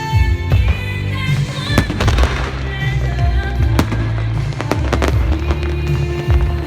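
Fireworks going off in a rapid, irregular run of bangs and crackles, over steady background music.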